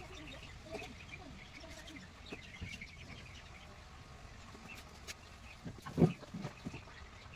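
Quiet background with faint bird calls and clucking, and a few sharp knocks about six seconds in.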